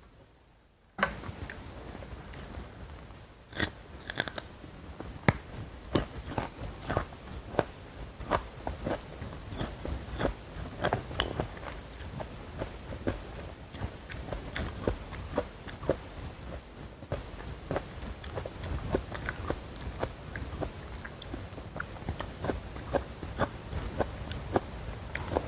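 Close-miked chewing of crunchy food, starting abruptly about a second in. A few loud, crisp bites come early, followed by a steady run of small crunches.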